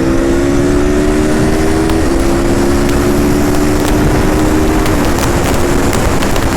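Aprilia RSV4 RF's V4 engine pulling hard under full acceleration, its pitch climbing through the revs, with two quick upshifts about two and five seconds in, over heavy wind rush.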